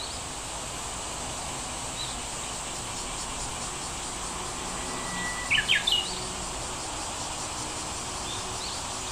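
Outdoor insect hum, steady and high, with a bird calling. About halfway through there is a level whistle followed by a quick burst of sharp notes, and a few faint short chirps come before and after it.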